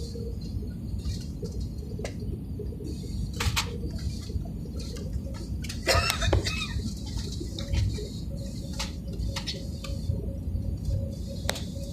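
Low steady rumble inside an airliner cabin after landing, with scattered clicks and knocks and a louder clatter about six seconds in.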